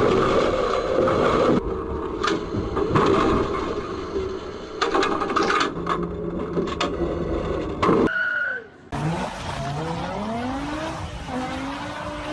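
Loud car and road noise with several sharp knocks for about eight seconds. Then, after a sudden cut, a car engine accelerating, its pitch rising several times in a row.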